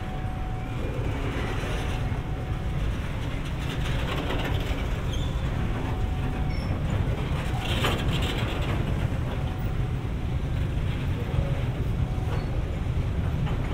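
Oil tank train running on rails: a steady low rumble, with one sharp clank about eight seconds in.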